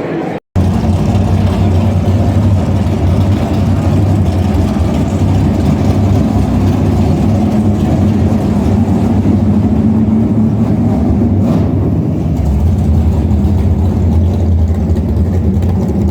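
A car engine running steadily with a loud, low rumble. It starts abruptly about half a second in.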